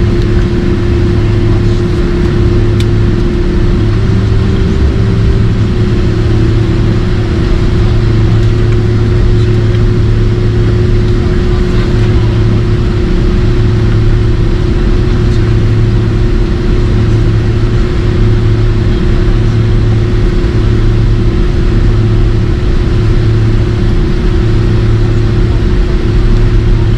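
Loud, steady engine noise heard from inside a vehicle: a constant hum, with a lower drone that swells and fades about every second and a half.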